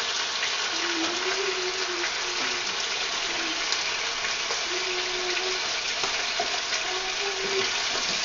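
Frog legs sizzling steadily as they fry in garlic butter and oil in a pan, with a few light scrapes and clicks as a slotted spatula turns them over.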